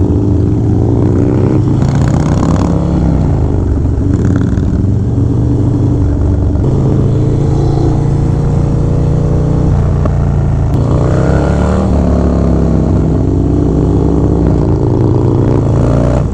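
Harley-Davidson Low Rider S's big V-twin, fitted with a Fab 28 exhaust and S&S 585 cams, running under way. Its pitch climbs as it accelerates and drops back at each gear change, several times over.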